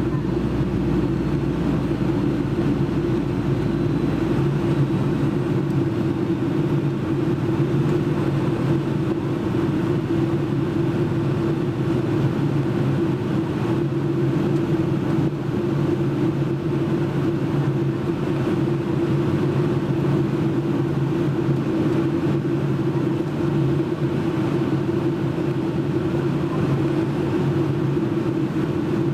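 Steady cabin drone of a Boeing 757-200 in flight, heard from inside the passenger cabin: engine and airflow noise forming an even, constant low hum that does not change.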